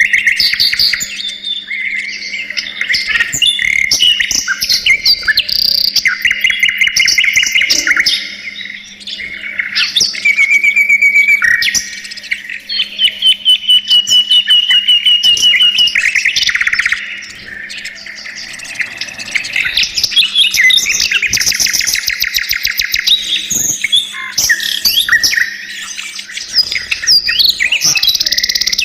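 Budgerigars chattering continuously, a dense mix of chirps, warbles and rapid trills.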